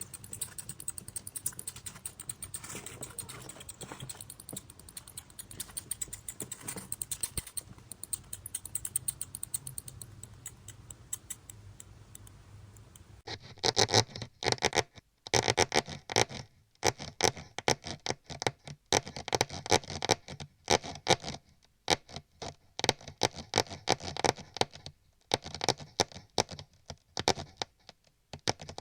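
Rapid pattering and scratching of small mouse feet scurrying, faint at first and much louder from about halfway through, in short runs broken by brief pauses.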